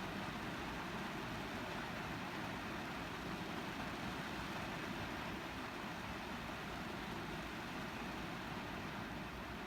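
Rain falling steadily on a car's roof and windows, heard from inside the cabin as an even hiss.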